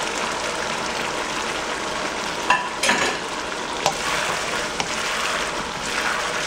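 Battered deep-fried chicken pieces sizzling in a thickening sauce in a hot wok while a wooden spoon stirs them, with a few sharp knocks of the spoon against the pan, the loudest about two and a half seconds in.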